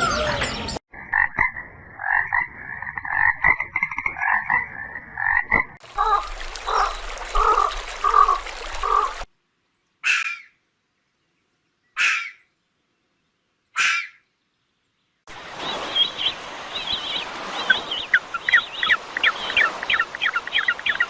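Frogs croaking in a run of short cut-together clips: a fast pulsing chorus, then slower separate croaks, three single calls about two seconds apart, and a rapid trilling chorus near the end.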